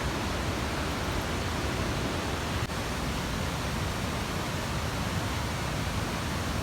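Steady rushing of a mountain stream's running water, an even hiss with no breaks.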